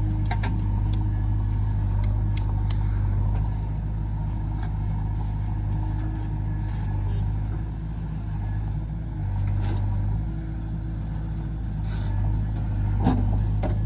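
Heavy diesel engine running steadily at a low, even speed, with a few scattered sharp clicks and knocks over it.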